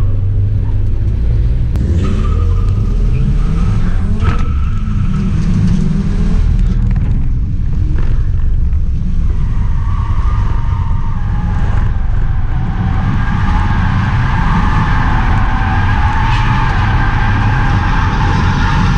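Volvo 740 turbo drift car's four-cylinder engine running hard under throttle, with tyres squealing while it slides, the squeal growing stronger in the second half.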